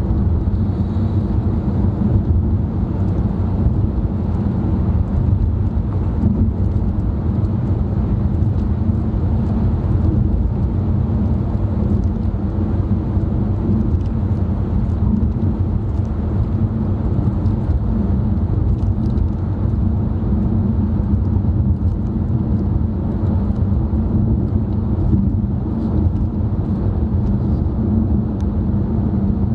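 Steady road and engine noise heard from inside a moving car's cabin: a low, even rumble of tyres and engine while cruising.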